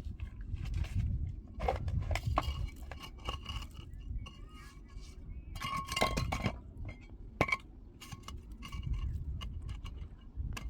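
A run of clinks and knocks from hard objects being handled, a few ringing briefly, over a steady low rumble.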